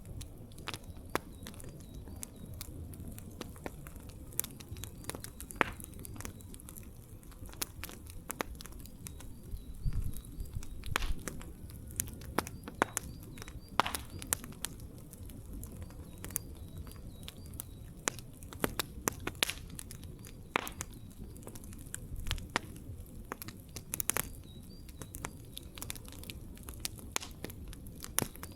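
Wood campfire crackling: irregular sharp pops and snaps, some louder than others, over a low steady rumble of burning.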